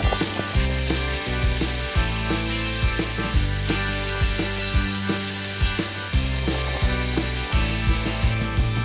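Diced bell peppers sizzling in hot oil in a stainless steel wok while a silicone spatula stirs them, with irregular clicks of the spatula against the pan. Background music with a bass line plays underneath.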